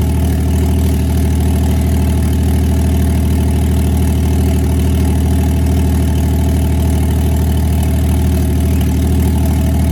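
Turbocharged Toyota 1JZ inline-six, freshly swapped into a car, idling steadily on one of its first runs.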